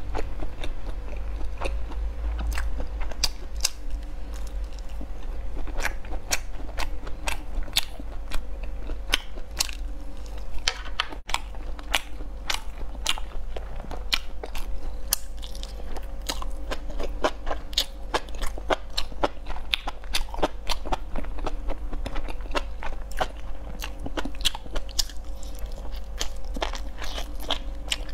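Close-miked mouth sounds of eating grilled skewered food (fried tofu and enoki mushrooms), a steady run of irregular sharp wet clicks, bites and crunches, over a steady low hum.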